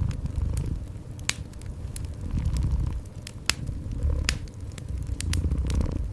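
Cat purring in slow, rhythmic swells, with a wood fire crackling and snapping over it in scattered sharp pops.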